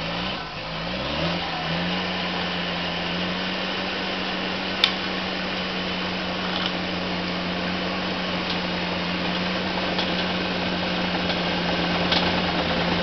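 A vehicle engine revs up over the first couple of seconds, then holds a steady high speed with an even hum. There is one sharp click about five seconds in.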